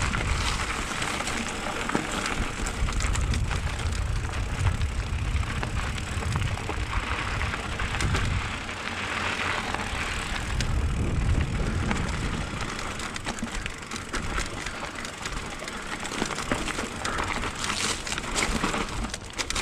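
Mountain bike riding over a dirt trail: wind buffets the action camera's microphone in a low rumble, while the tyres crunch and rattle over loose dirt and stones with many small clicks.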